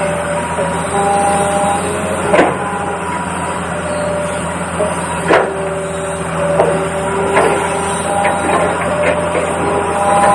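Small electric gear motors of an RC toy excavator whining in short runs at different pitches, starting and stopping every second or two over a steady hum, with a couple of sharp knocks.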